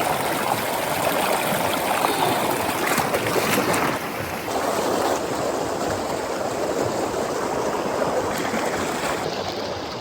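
A storm-swollen mountain creek rushing fast and hard: a steady, loud rush of flowing water.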